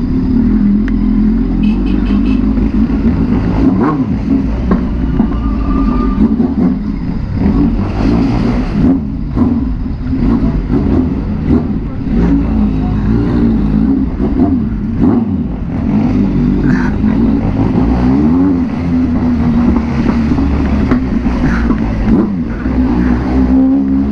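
Kawasaki Z800's inline-four engine running at low revs, its pitch wavering up and down with the throttle as the motorcycle is ridden slowly over cobbles, with scattered short knocks.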